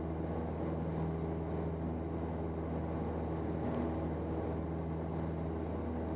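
Engine and propeller of a 1977 Cessna 172N, its four-cylinder Lycoming, droning steadily as heard inside the cabin during the climb-out after takeoff.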